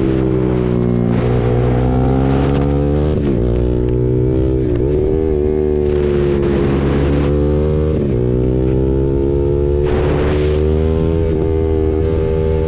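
KTM RC 390's single-cylinder engine running through an SC-Project aftermarket exhaust while riding: the note rises and falls with the throttle, with several brief dips, under passing gusts of wind noise.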